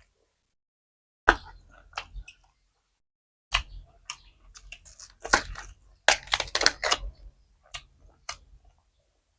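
A person chewing and crunching food close to the microphone, in several short crackly bursts with silence between them, the busiest stretch about six to seven seconds in.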